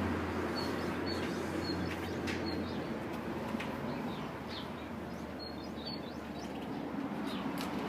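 Several short, high bird chirps over a steady background hum. The hum drops away about three seconds in, and a few faint light clicks come through.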